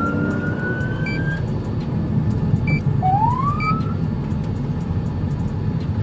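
Police car siren rising in slow wails, sweeping up in pitch twice, over steady engine and road noise, with short electronic beeps in between.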